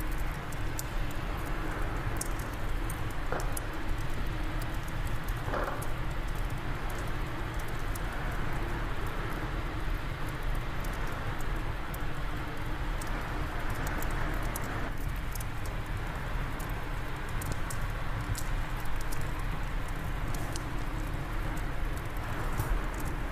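Wood fire crackling in a fireplace, with many small irregular pops, over a steady low wind noise.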